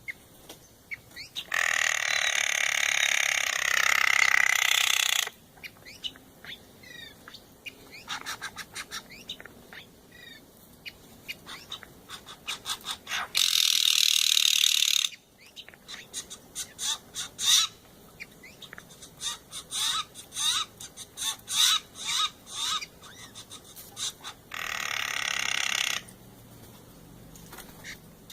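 Steller's jays calling: three long harsh, rasping calls, the first lasting several seconds, with quick series of short clicking notes in between.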